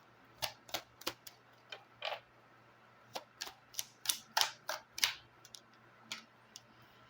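Lenormand cards being handled and laid down: a string of irregular light clicks and snaps, some louder than others.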